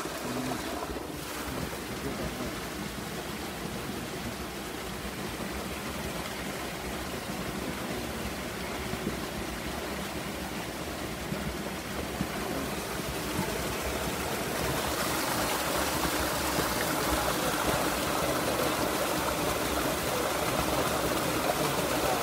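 River water rushing steadily, growing louder and brighter about two-thirds of the way in.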